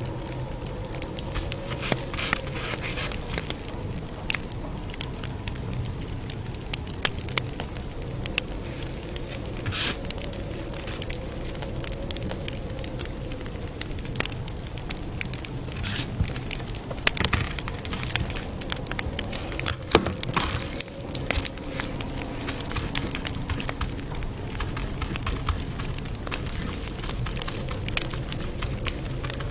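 Campfire crackling: wood pops and snaps at irregular intervals over a steady low rumble of burning, with one sharper pop about twenty seconds in.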